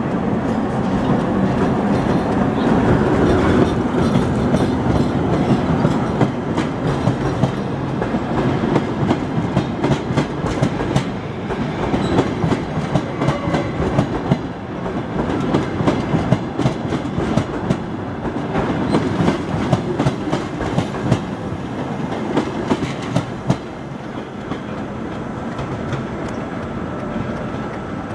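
Passenger train hauled by a ChS2 electric locomotive rolling past as it leaves the station, its coach wheels clicking over rail joints and points in a clickety-clack. The sound eases a little near the end as the train draws away.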